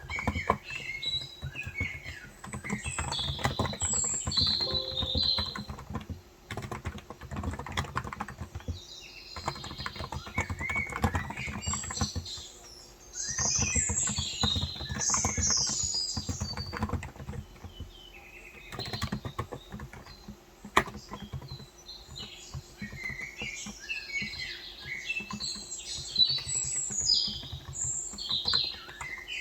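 Typing on a Cox Endeavour 35 g electrostatic capacitive (contactless) tenkeyless keyboard, in runs of keystrokes broken by short pauses. Small birds chirp over it in repeated short high calls.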